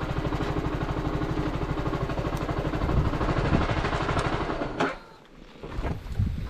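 Zontes C125's single-cylinder 125 cc engine idling with an even pulsing beat, then switched off about five seconds in; a few light knocks follow.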